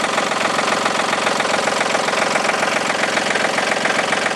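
John Deere 790 compact tractor's three-cylinder diesel engine running steadily with a rapid, even clatter.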